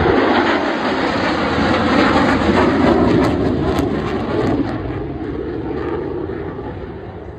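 Airplane flying past at an air show: a loud engine rush that holds for the first few seconds, then fades away as the aircraft moves off.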